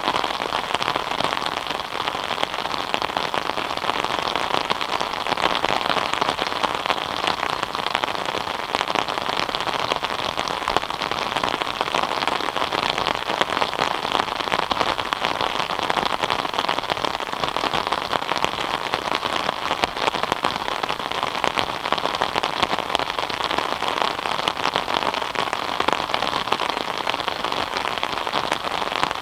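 Steady rain falling, a dense, even patter of drops on a surface.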